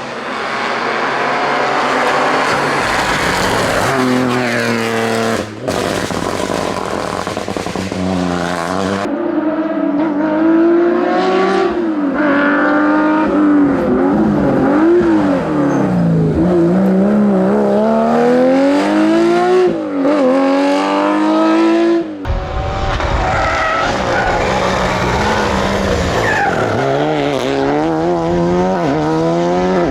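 Rally cars being driven hard on a mountain stage, in several clips joined by sudden cuts. Each engine revs up and drops again through gear changes and braking, with tyre squeal in slides.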